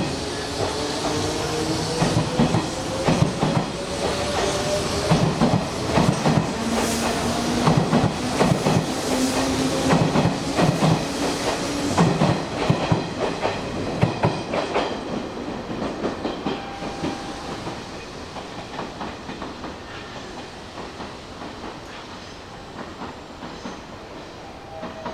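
Electric train pulling out and accelerating: its motor whine climbs steadily in pitch while the wheels clack over rail joints, and the sound fades after about fifteen seconds as it pulls away.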